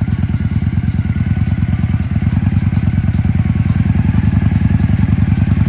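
1999 Honda Shadow ACE 750's V-twin engine idling with a steady, rapid, even pulse, running after work on its carburetor.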